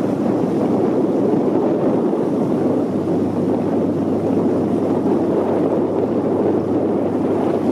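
Steady wind rushing over the microphone out on the water.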